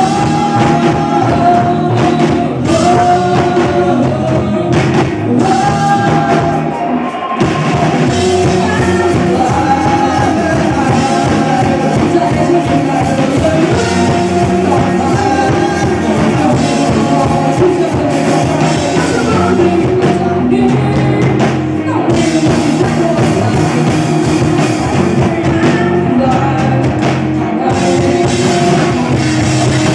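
Rock band playing live with a singer: drum kit, guitars and vocals, with a short break in the drums about seven seconds in.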